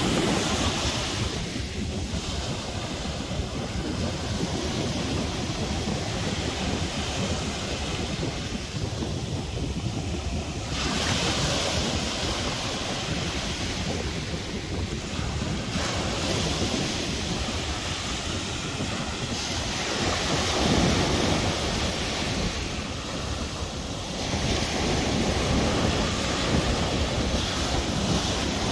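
Sea waves washing and breaking, swelling and easing every few seconds, with wind rumbling on the microphone.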